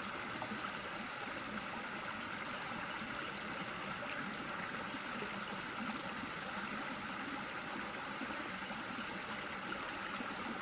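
Steady outdoor background noise: an even rush with no distinct events, like running water.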